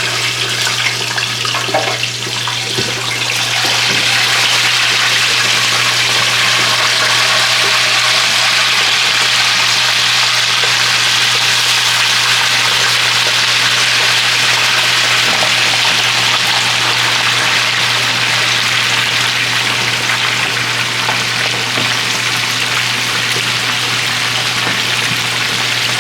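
Hot oil in a turkey deep fryer bubbling and sizzling hard, with a turkey frying in it. It swells about three to four seconds in and then holds steady, over a constant low hum.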